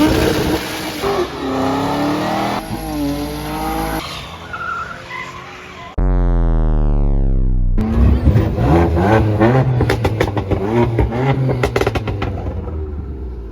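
Car engines revving and tyres squealing in quick cuts. About six seconds in, a loud steady buzzing tone holds for nearly two seconds. After that an engine revs amid a rapid string of sharp exhaust pops and crackles.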